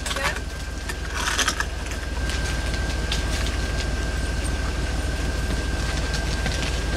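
Scraping and crunching at a crust of ice and snow on a car, in a few sharp strokes with the loudest about a second in. A steady low hum and a faint steady whine run underneath.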